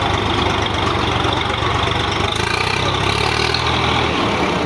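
Tractor diesel engine running steadily with an even low chugging.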